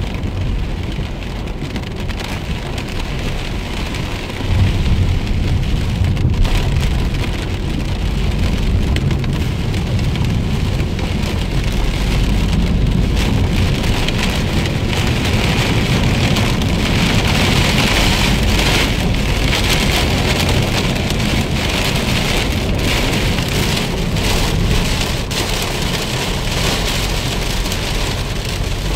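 Heavy rain pattering on a moving car, over the low rumble of the car driving. It gets louder about four and a half seconds in.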